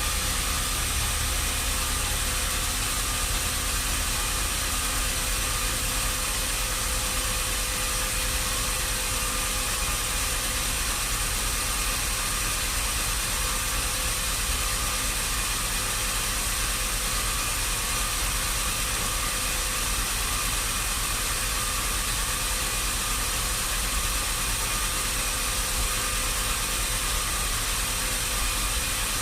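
Machinery running steadily: an engine or motor hums evenly with a constant pitch and no change in pace.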